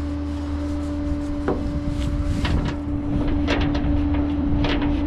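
A tie-down strap being ratcheted to secure a car on a transport truck: a series of short metallic clicks and knocks starting about a second and a half in. Under them runs a steady, even hum.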